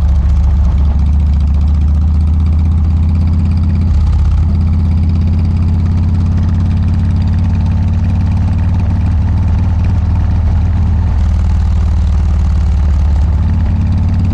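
Harley-Davidson Dyna's air-cooled V-twin running steadily at low revs through aftermarket Motor Stage mufflers, with slight changes in engine note about four seconds in and again near the end.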